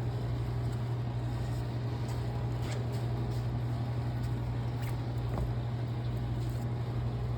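A steady low machine hum, even and unchanging, with a few faint clicks.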